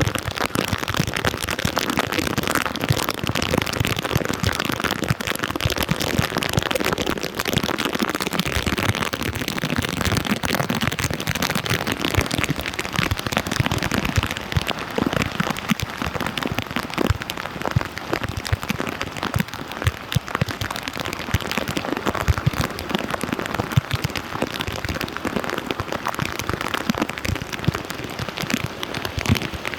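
Heavy rain falling steadily, a dense patter of drops hitting water and hard ground.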